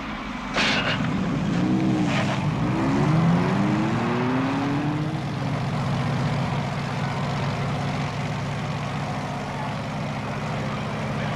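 An engine running. Its pitch rises and falls in the first few seconds, then it settles into a steady drone.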